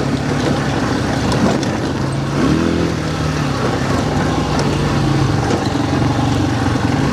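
ATV quad bike engine running at a steady pitch while riding.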